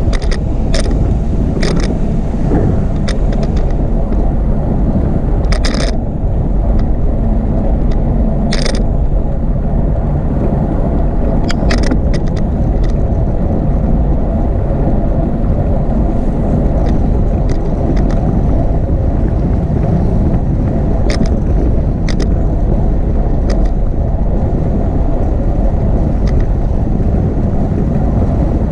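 Wind buffeting the microphone of a camera riding along on a moving bicycle: a loud, steady low rumble. Scattered sharp clicks and rattles sound every second or few, most of them in the first half.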